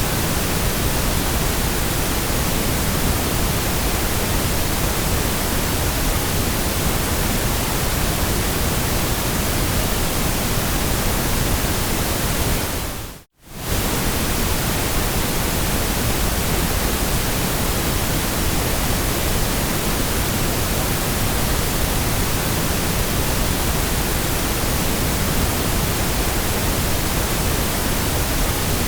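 Steady white noise: an even, unchanging hiss spread across all pitches. About halfway through it dips briefly to near silence and comes straight back.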